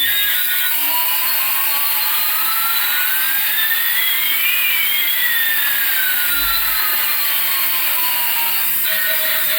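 A jet-engine sound effect: a steady rushing whoosh with one tone sweeping slowly up while another sweeps down, the two crossing about halfway through.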